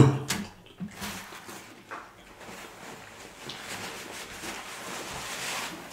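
A man chewing a bite of juicy sausage: soft wet mouth sounds with a few small clicks. About three seconds in, a steady papery rustle joins as a paper napkin wipes his mouth.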